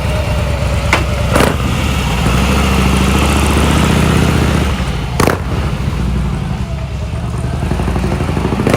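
Motorcycle engine running under way, its low pulsing note swelling louder about three to four seconds in and easing back after a sharp click about five seconds in; another sharp click sounds about one and a half seconds in.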